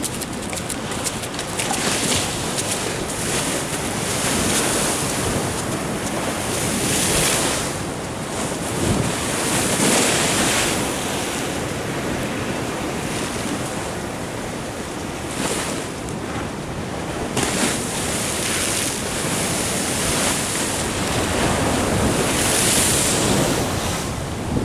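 Ocean waves washing in, the surf swelling and easing every two to three seconds, with wind buffeting the microphone.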